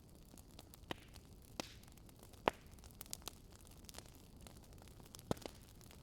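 Wood fire crackling: scattered sharp pops at irregular moments, the loudest about two and a half seconds in, over a soft steady hiss.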